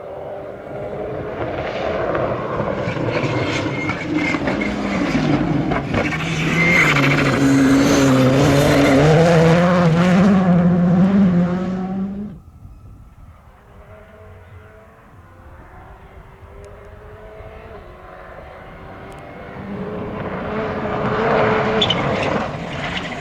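Rally car at full throttle, its engine note rising and falling with gear changes as it approaches and passes, loudest around eight to eleven seconds in. The sound drops away abruptly about twelve seconds in, leaving a fainter engine in the distance, and an engine grows louder again near the end.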